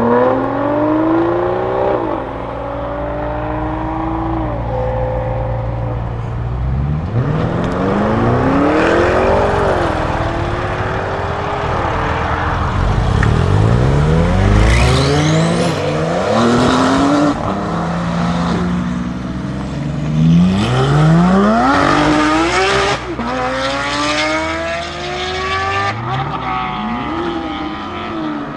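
Lamborghini Huracán STO's naturally aspirated V10 accelerating hard, its pitch climbing through the revs and dropping at each quick upshift, over several runs. Under the first few seconds a steady low engine drone continues.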